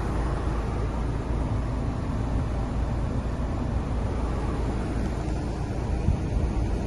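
Mercedes-Benz CLC200 Kompressor's engine running steadily at idle, a low even rumble.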